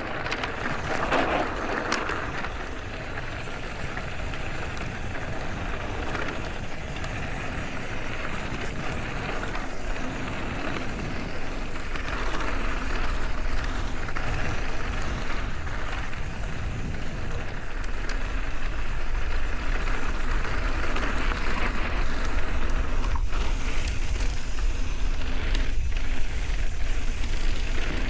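Mountain bike riding on a dirt trail: wind rushing over the bike-mounted camera's microphone and tyres rolling over the ground. The low wind rumble grows stronger about halfway through.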